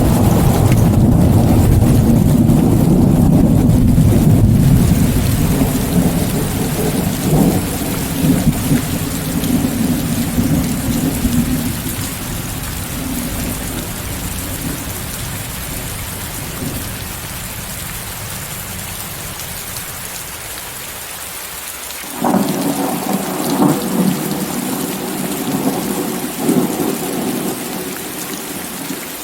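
Steady rain with a hiss of added white noise, under a long rumble of thunder that fades away over about twenty seconds; a second thunder rumble breaks in suddenly about 22 seconds in and dies down near the end.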